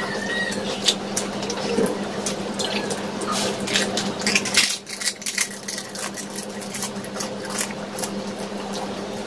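Close-miked mouth sounds of eating pani puri: crunching of crisp fried puri shells and wet, squishy chewing of the water-filled puris, in many quick crackles that are densest and loudest around the middle. A steady low hum runs underneath.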